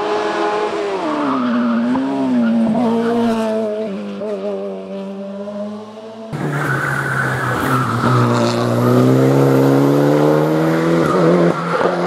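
Hill-climb race car engines at high revs. For the first six seconds the engine note falls and wobbles as the car lifts and shifts. About six seconds in it cuts abruptly to another car accelerating, its pitch rising steadily.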